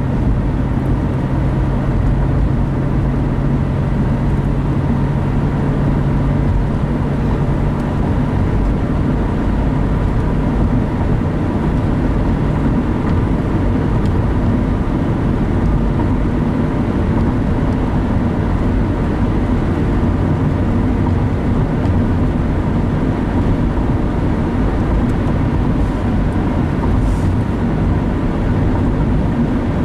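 Steady road and engine noise heard from inside a moving car: a constant low rumble, with a low steady hum that stops about eight seconds in.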